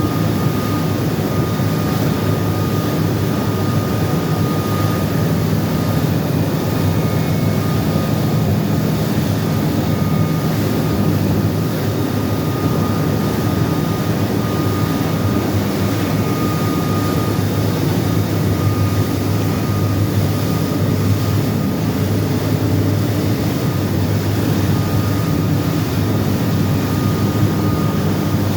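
Small boat's engine running steadily at full throttle, over a constant rushing noise.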